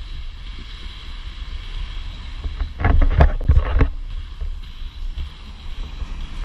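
Wind buffeting the action-camera microphone over a steady hiss of inline skate wheels rolling on wet pavement, with a louder rough burst of about a second starting about three seconds in.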